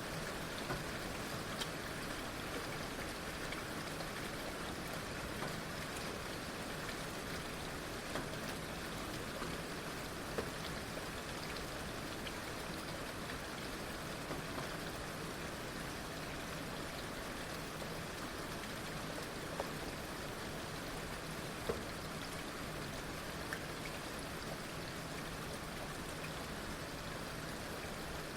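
Heavy rain falling steadily, with a few sharper drops striking close by now and then.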